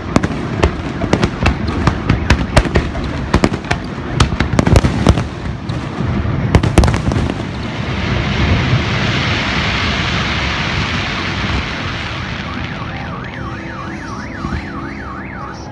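Aerial fireworks shells bursting in a rapid string of sharp bangs for about the first seven seconds, followed by a dense, steady rushing hiss. In the last few seconds a warbling alarm-like tone rises and falls about three times a second.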